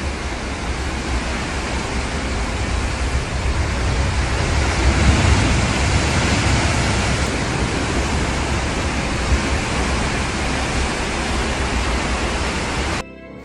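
Loud, steady rushing noise with no distinct events, cutting off suddenly near the end.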